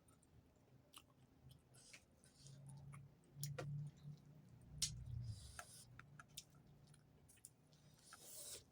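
Close-up mouth sounds of a person chewing food: scattered wet clicks and smacks, with a few short hissy sucking sounds and a low murmur in the middle.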